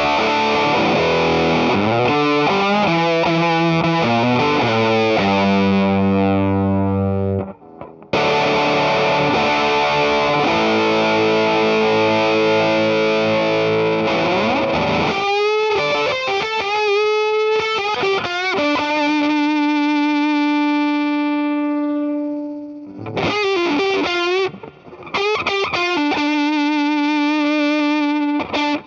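Electric guitar played through an Earthquaker Devices Sound Shank germanium fuzz pedal: heavily fuzzed chords and riffs, stopping briefly about seven seconds in. About halfway, it turns to long held single notes with a wavering pitch.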